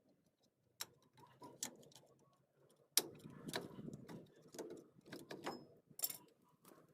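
Irregular metallic clicks and clinks of hand tools on a drum brake assembly, with a few sharper strikes about a second, three seconds and six seconds in, as a brake spring is worked loose to free a part.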